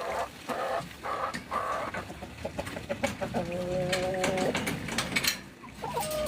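Chickens clucking: a run of short clucks, then one drawn-out call of about a second, and a short call near the end, with scattered sharp clicks and scratches around them.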